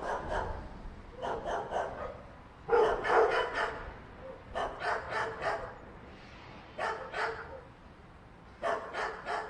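Dog barking in short runs of two to four quick barks, about five runs spaced a second or two apart.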